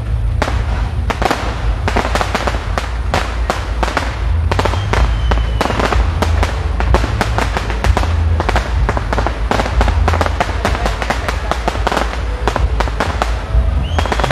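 Fireworks display: a rapid, continuous barrage of bangs and crackling from aerial shells and comets bursting overhead. A falling whistle cuts through a little under five seconds in, and another starts near the end.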